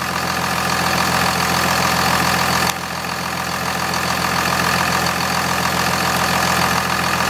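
Cummins 24-valve turbo diesel idling steadily, with a brief dip in level about two and a half seconds in.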